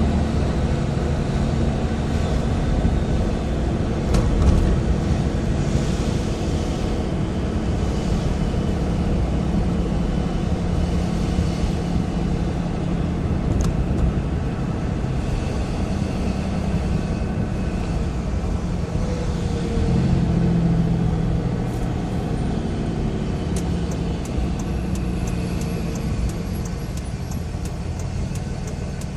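A 5.9-litre Cummins turbo-diesel in a 2006 Dodge Ram Mega Cab running steadily on the road, heard from inside the cab, with turbo whistle coming through a Spectre aftermarket intake. A quick, regular ticking sounds near the end.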